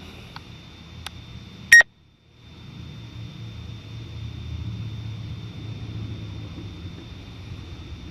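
A steady low hum with a faint high steady whine, broken by a short, sharp electronic beep a little under two seconds in, after which the sound cuts out for about half a second before the hum comes back.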